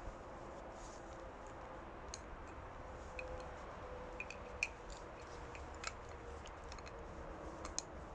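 Faint, irregular sharp clicks and ticks, a dozen or so, over a low steady outdoor background; the loudest come just before the middle, about two thirds of the way in and near the end.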